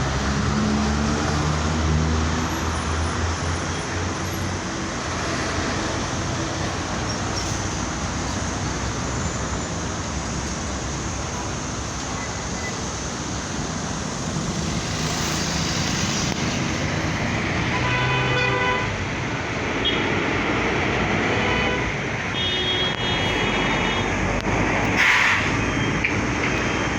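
Road traffic noise with a heavy truck's engine running, and several horn toots in the second half. A sharp knock near the end.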